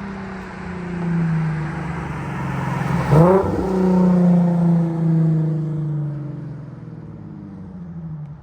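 Infiniti G37S V6 running on a resonator-only, muffler-deleted exhaust while being driven. It revs up sharply about three seconds in, then the note slowly falls as it eases off.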